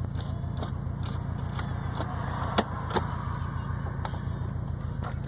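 2020 Subaru WRX STI's turbocharged flat-four engine cruising at a steady speed, heard through an ETS quiet catback exhaust with a resonated mid pipe: a low, even drone. Two sharp clicks come a little past halfway.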